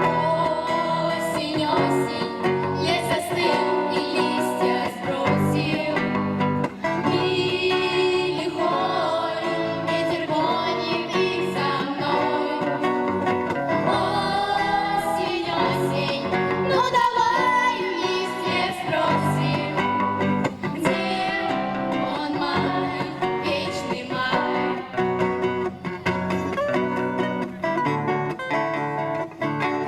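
Girls' vocal ensemble singing a song with guitar accompaniment.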